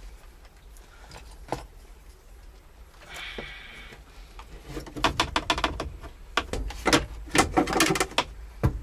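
Handling noise: a short scrape about three seconds in, then a run of rapid clicks, knocks and rattles from about five seconds on.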